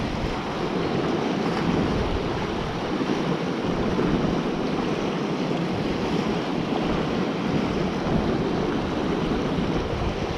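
A steady rush of wind and water noise, with gusty buffeting of wind on the microphone.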